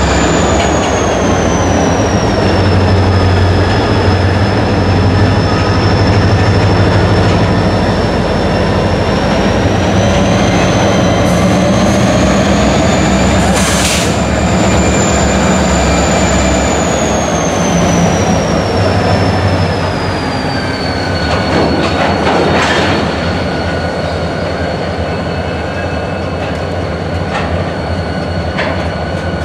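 Union Pacific diesel locomotives rolling slowly past with a flatcar: a steady low engine drone, wheel flange squeal sliding slowly up and down in pitch, and a few sharp clanks from the wheels and couplers. The engine drone eases off a little after about twenty seconds.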